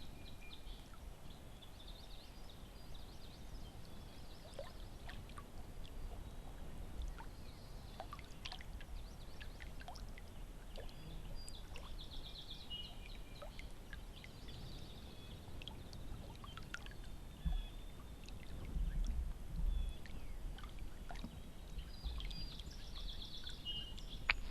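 Canoe paddling on a lake: paddle strokes dipping into the water with small splashes and drips.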